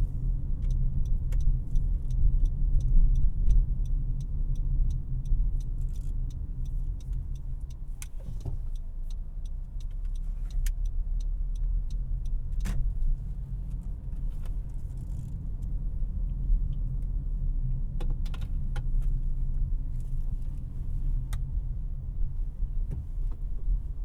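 Cabin sound of a 2018 Honda CR-V LX on the move: a steady low rumble of road and engine. Over it comes a run of evenly spaced light ticks for about the first eight seconds, then a few scattered clicks and rattles.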